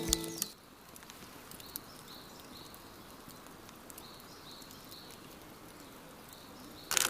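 Faint chirping of insects: short high chirps repeating several times a second over quiet outdoor background. Background music stops about half a second in, and a louder sound cuts in just before the end.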